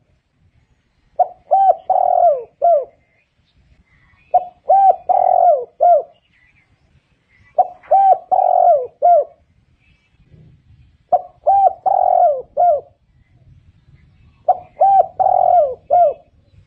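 Spotted dove singing: five phrases of cooing, each a quick run of short coos with one longer coo in the middle, repeated about every three seconds.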